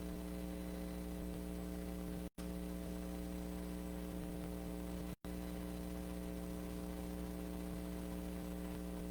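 Steady electrical mains hum with a buzzing stack of overtones over faint hiss, from the audio chain with nothing playing through it. It cuts out completely for an instant twice, about two and five seconds in.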